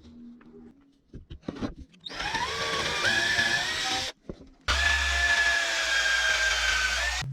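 Electric drill working pine wood in two runs: the motor spins up with a rising whine about two seconds in, stops briefly, then runs again with a steady whine until it cuts off near the end.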